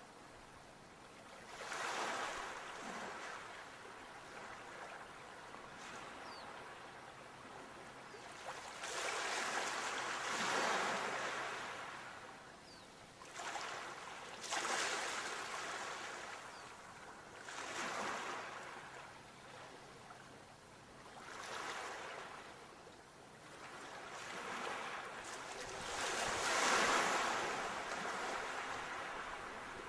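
Sea waves breaking and washing up a shore, one after another every few seconds, each swelling to a rush of surf and then draining away.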